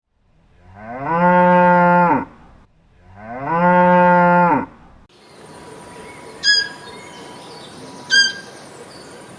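Cow mooing twice, two long calls of about two seconds each. After the second moo a steady hiss follows, with two short high chirps.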